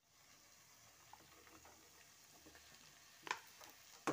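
Faint low sizzle of vegetables and sauce in a wok over a very low flame. Near the end come two brief knocks as boiled noodles are dropped into the wok.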